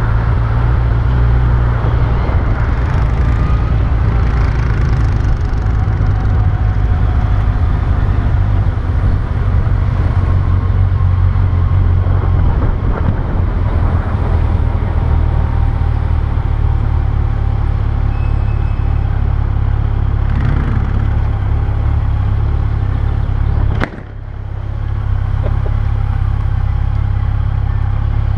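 Motorcycle on the move: steady engine and wind rumble, with a sudden break about three-quarters of the way through, after which the noise builds back up.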